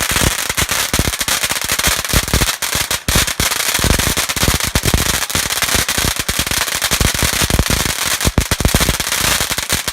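Multi-shot firework cake going off in a rapid, continuous barrage of sharp bangs and crackles, several a second, over a steady hiss.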